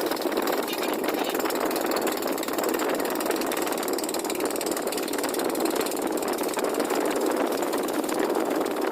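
A fishing boat's engine running steadily, with a fast, even pulse.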